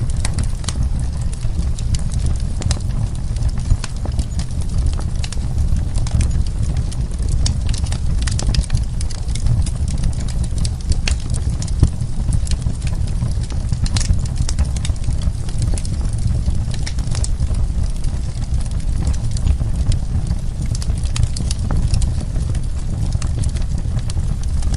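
Wood fire burning, with a steady low rumble of flame under a dense, irregular run of crackles and sharp pops from the burning logs.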